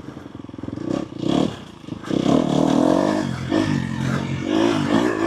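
Dirt bike engine lugging at low revs for about two seconds, then revving up and down with the throttle as the bike picks its way along a rocky single-track trail.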